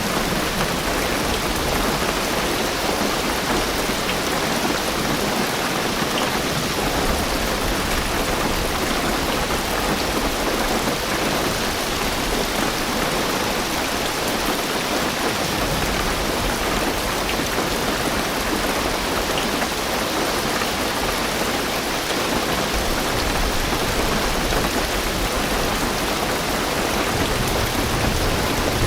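Heavy rain drumming steadily on a car's roof and windows, heard from inside the car as a dense, even hiss. A low rumble swells underneath near the end.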